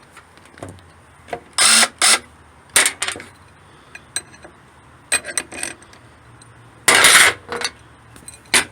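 Sharp metallic clinks and clatter from handling steel threaded rod and a cordless threaded rod cutter, in several separate bursts. The loudest come about two seconds in and about seven seconds in.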